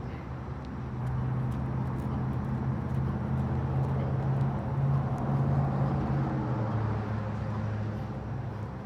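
A vehicle engine running nearby, a low hum that swells from about a second in and eases off near the end, its pitch dropping as it fades.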